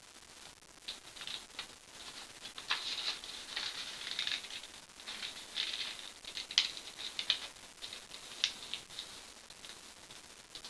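A sheet of printer paper being handled, folded and creased by hand: irregular rustling and crisp crackles.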